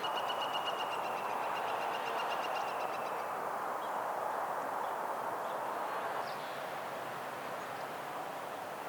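A bird's high, rapid trill for about the first three seconds, over a steady rushing background noise.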